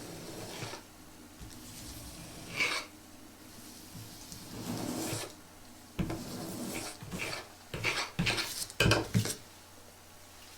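Irregular scraping and rubbing from hands working on the Pez toys or their packaging, with a sharp click about six seconds in and a run of louder scrapes and clicks near the end.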